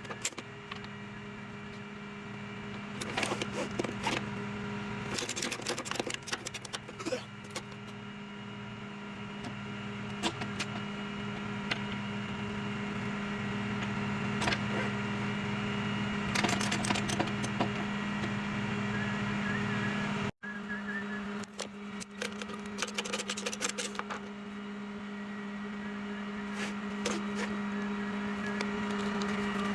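Tow truck running with a steady hum, its level slowly rising and falling, while metal chains and hooks rattle and clank on and off as a car is unloaded from the truck.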